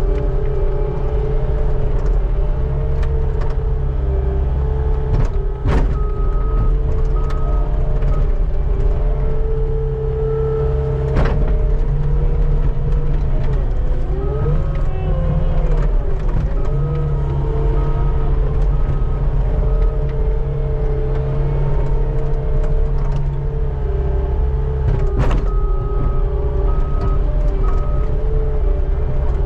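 Skid steer's diesel engine running steadily under hydraulic work as the bucket scrapes snow, with a few sharp knocks from the bucket. Around the middle the engine pitch dips and comes back as it takes load, and a high beeping comes and goes.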